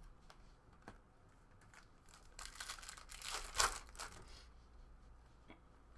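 A trading card pack wrapper being torn open and crinkled, a crackly burst about two seconds in that peaks with a sharp rip, after a few light clicks.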